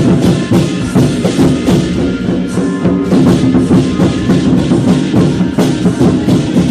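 Loud traditional temple procession music: percussion struck in a steady beat about twice a second, over a sustained pitched melody.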